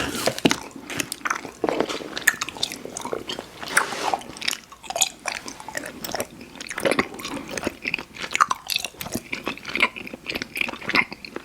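Close-up chewing and mouth smacking on chewy fruit candy (Airheads Bites and Tootsie Fruit Chews), a dense run of wet clicks and smacks.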